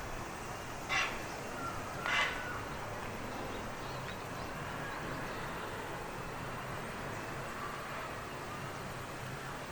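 A bird gives two short, harsh calls about a second apart, over a steady background of outdoor noise.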